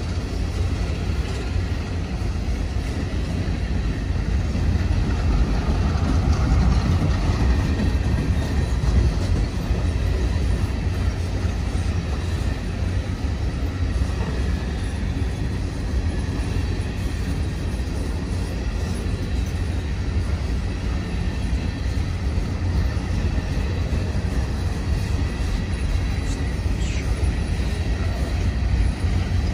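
A train rolling past, a continuous steady rumble with no distinct clanks or pauses.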